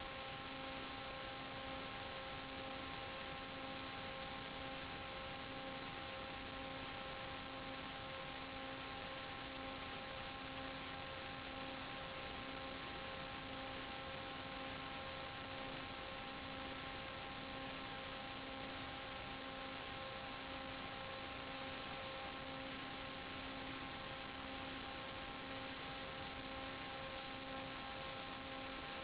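Steady static hiss with a constant electrical hum of several fixed tones, the lowest gently pulsing: noise on the audio channel of an analog 5.8 GHz FPV video downlink.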